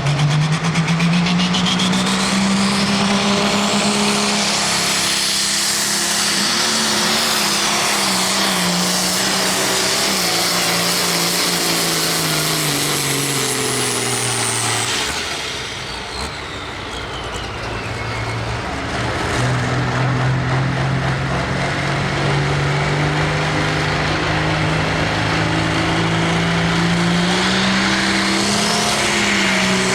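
Pro stock pulling tractor's turbocharged diesel engine running hard at high revs during a pull, with a high whine over it that climbs in the first few seconds. About halfway through, the whine falls away and the engine note drops briefly, then the engine picks up and runs hard again.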